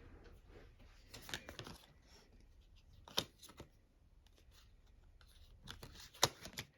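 Faint rustling and a few light taps of oracle cards being handled on a table, with the clearest taps about a second and a half in, about three seconds in, and just before the end.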